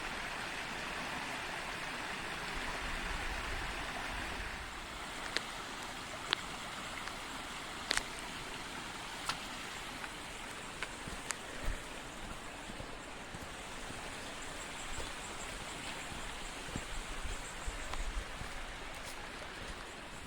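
Steady rush of running water from a stream, a little louder in the first few seconds, with scattered light clicks over it.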